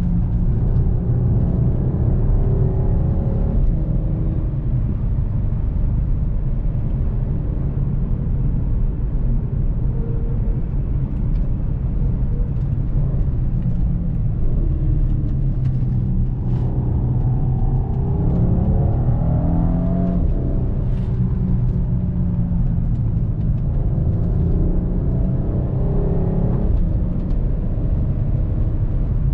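Volkswagen CC's 3.6-litre VR6 engine running under way over a steady rumble of road and tyre noise, its note rising and falling a few times as the car speeds up and eases off.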